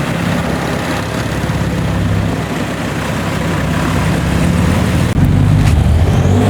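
Car engine running steadily at low revs, with a sudden step up in loudness about five seconds in.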